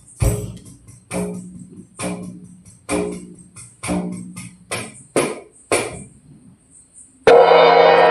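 A tambourine-style frame drum with jingles beaten in a slow steady pulse, about one stroke a second, the last few strokes coming quicker. About seven seconds in, a large bell is struck once, loud, and rings on with many steady tones.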